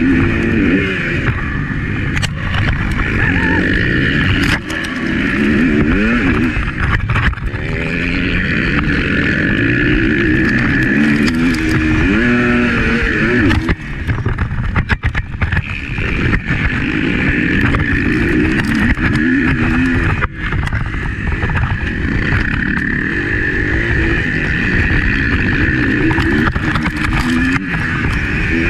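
Motocross bike engine heard from a camera mounted on the bike, its revs rising and falling over and over as the rider accelerates, shifts and backs off, with a few brief sudden drops in the sound.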